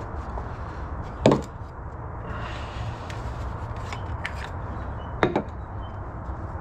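Two sharp knocks about four seconds apart, with a few light clicks between them, over a steady low background noise.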